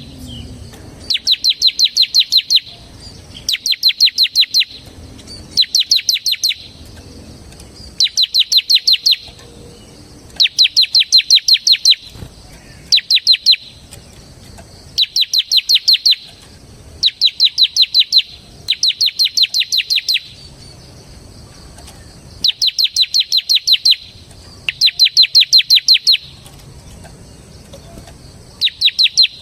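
Bar-winged prinia (ciblek semi) singing in the rapid 'ngebren' style: bursts of fast, high, evenly repeated notes, each about a second to a second and a half long, a dozen or so with short pauses between.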